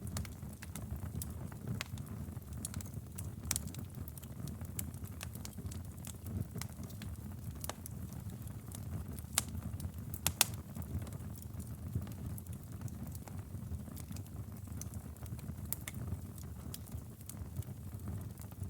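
Wood fire burning in a fireplace: a steady low rumble of flames with scattered sharp crackles and pops, two of them louder about halfway through.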